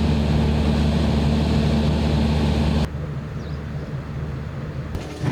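Superbike racing motorcycle engine running steadily at a constant low speed. About three seconds in, the sound cuts off abruptly to a quieter, duller engine sound.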